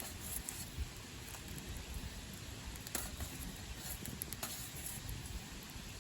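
Wood campfire crackling: a steady low hiss with scattered sharp pops, the strongest about three seconds in.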